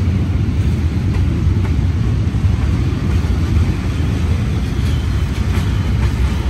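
Train hauled by a D19E diesel-electric locomotive running by with a steady low rumble, a few faint clicks over it.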